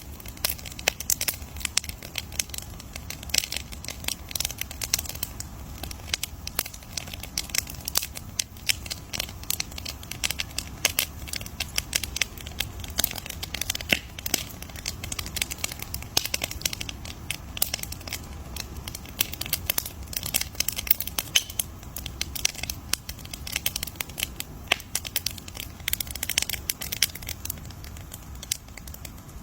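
Wood campfire crackling steadily, with many irregular sharp pops and snaps over a low, even rumble of burning.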